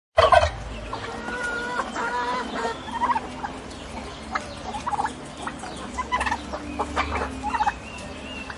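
Domestic turkeys gobbling, with a loud gobble just after the start followed by many shorter gobbles and calls throughout.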